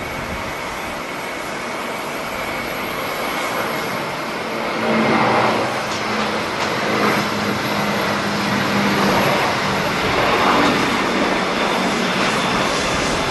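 Jet airliner engines running, a steady rushing noise with a faint high whine that swells louder about five seconds in.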